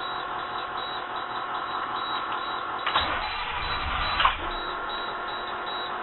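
Starter motor cranking the Amtran RE school bus's cold diesel engine in a hard start, the engine not catching. About three seconds in there is a louder burst with a low rumble lasting about a second, ending in a sharp clunk, before the steady cranking goes on.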